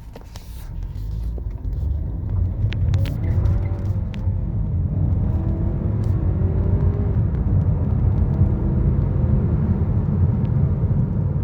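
2018 Lincoln MKC's 2.0-litre EcoBoost four-cylinder accelerating hard over a heavy low road rumble. Its engine note climbs in pitch and falls back as the automatic transmission upshifts, about four seconds in and again after seven seconds.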